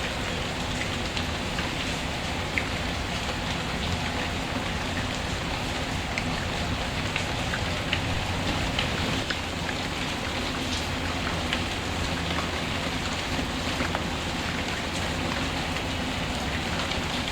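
Steady rain falling, with scattered small crackles and pops from a wood fire in a fireplace.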